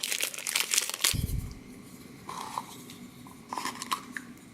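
Plastic blind-bag packaging of a toy being torn open and crinkled by hand, a dense crackle in the first second, then a dull knock and a few light plastic clicks as the toy hut is handled.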